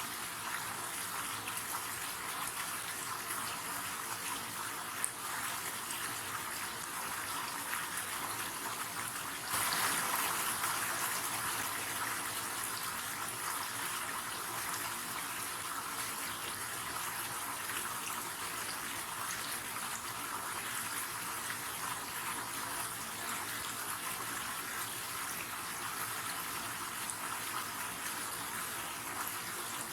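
River water flowing steadily, with a brief swell in loudness for a couple of seconds about ten seconds in.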